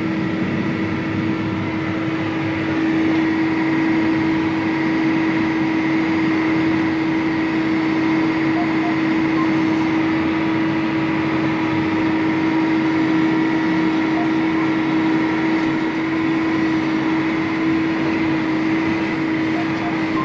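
9560 tractor's diesel engine running at a steady speed under way, an even drone with a strong constant hum.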